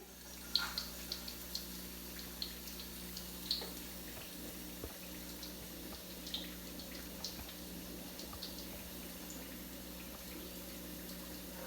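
Egg rolls frying in hot oil: a faint, steady sizzle with scattered small pops and crackles, most frequent in the first few seconds.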